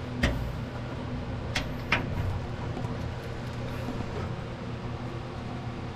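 Three sharp knocks in the first two seconds as parts and tools are handled, over a steady background hum.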